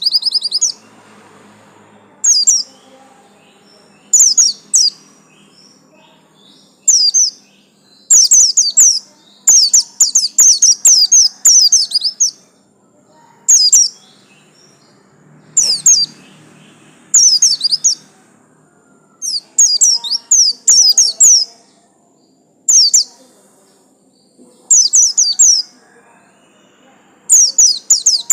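A Zosterops white-eye (pleci) singing: bursts of quick, high, falling chirps about one to two seconds long, repeated again and again with short pauses between them.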